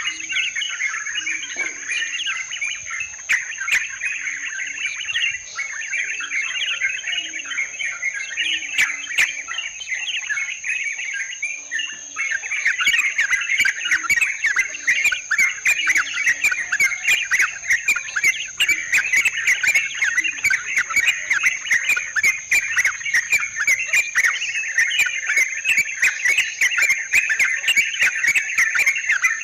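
Yellow-vented bulbuls chattering continuously in a dense flock chorus, over a steady high insect whine. The chatter gets busier and louder about halfway through, with many sharp clicking notes.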